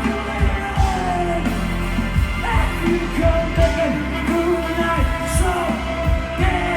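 Live rock band playing, with a steady drum beat under a voice singing and yelling without clear words.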